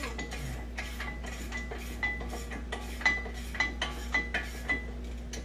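Hand ratchet clicking in short, repeated strokes, about two a second, each leaving a light metallic ring, as a stubborn bolt on a front brake caliper is worked loose.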